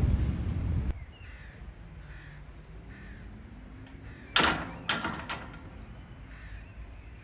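A bird giving short calls, repeated every half second or so. Two or three sharp knocks come about four and a half to five and a half seconds in, louder than the calls.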